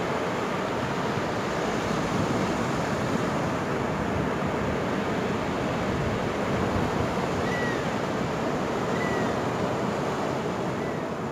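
Ocean surf on a beach, a steady rushing noise. From about seven and a half seconds in, three faint, short high calls sound a second or two apart.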